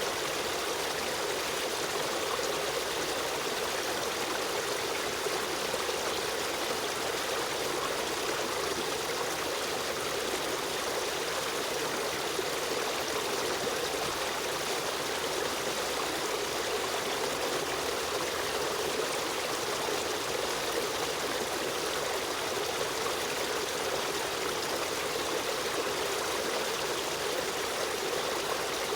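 Running stream water flowing and trickling in a steady, unbroken rush.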